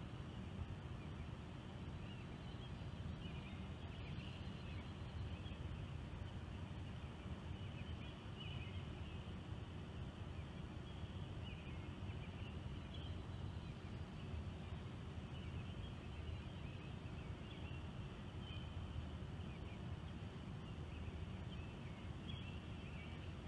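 Steady low outdoor rumble with faint, short high chirps every second or two, from distant birds calling.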